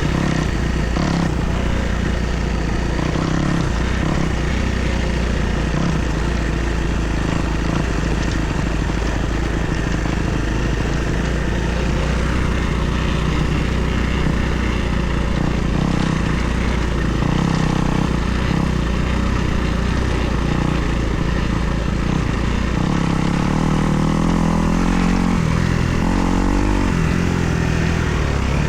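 Kawasaki KX250 four-stroke single-cylinder dirt bike engine running under riding load, its pitch rising and falling repeatedly as the throttle is worked and gears change.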